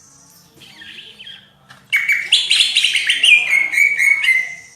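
Green leafbird (cucak ijo) singing: a few soft calls, then about two seconds in a loud, rapid run of varied, fast-changing notes that ends on a held note.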